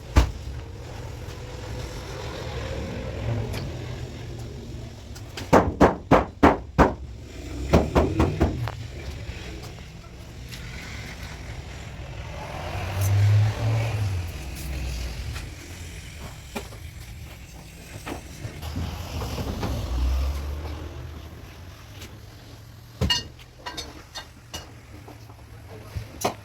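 Quick runs of sharp knocks, several strikes each, twice close together and again near the end, over a low rumble.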